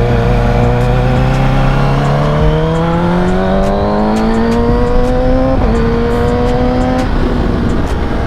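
Kawasaki Ninja ZX-6R's inline-four engine running under the rider: it holds a steady pitch, then accelerates with a rising pitch for about three and a half seconds and shifts up, the pitch dropping, about five and a half seconds in, then runs on at the lower pitch.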